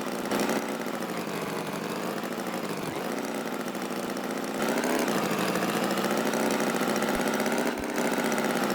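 A steady, buzzing engine-like drone whose pitch wavers slowly, getting a little louder about five seconds in.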